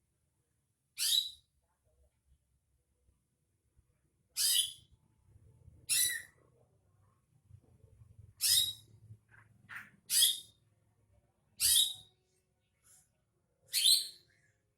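Green leafbird (cucak ijo) giving short, harsh, high-pitched calls, seven in all at irregular intervals of one and a half to two and a half seconds, as a lure to provoke other leafbirds into singing.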